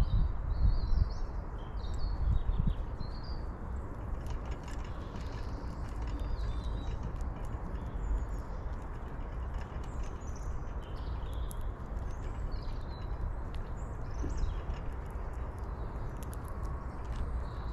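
Small birds chirping in short, scattered calls over a steady low outdoor rumble, with louder low thumps of rumble in the first three seconds.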